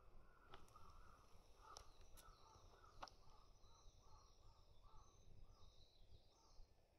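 Faint outdoor bird calls: a long run of short, evenly repeated calls, about two a second, with fainter high chirping over them. A few sharp clicks are heard in the first three seconds.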